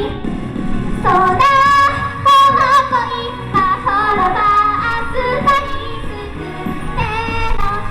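A female vocalist singing a pop song live over backing music, holding wavering sustained notes.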